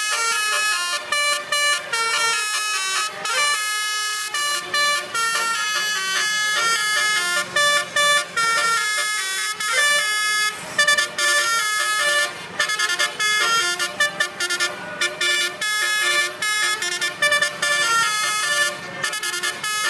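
Basuri musical truck horns playing a melody: a run of short horn notes stepping up and down in pitch, in phrases with brief breaks between them.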